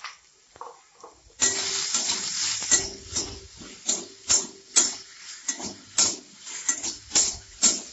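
Eggplant pieces frying in oil in a kadai, sizzling, while a spatula scrapes and tosses them against the pan. The sizzle jumps up about a second and a half in, as the stirring begins, and is then cut by rapid, repeated scrapes.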